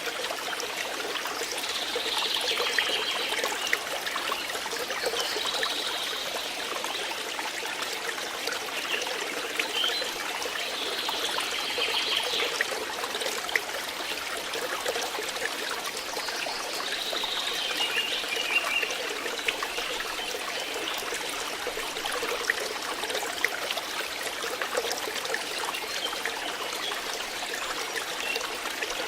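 Flowing water: a steady trickling, babbling rush with no break.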